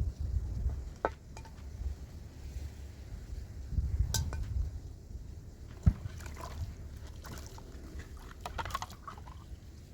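Scattered clinks and knocks of small objects being handled, with a cluster of clatters in the second half, over a low rumble.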